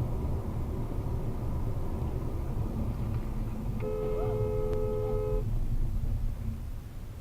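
Steady low road and engine rumble of a moving car, with a car horn blown once near the middle, held for about a second and a half on a steady two-note tone.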